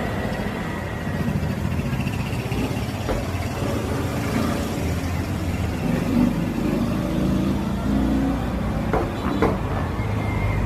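Steady low rumble of a running motor-vehicle engine, with a few brief clicks.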